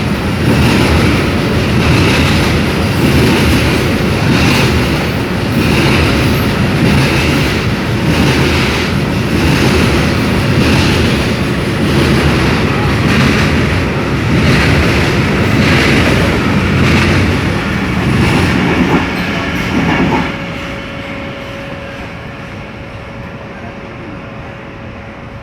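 Loaded coal freight train rolling past, its wagon wheels clattering over the rail joints in a regular beat about once a second. About 20 seconds in the clatter drops away, leaving a quieter steady rumble with a thin steady tone.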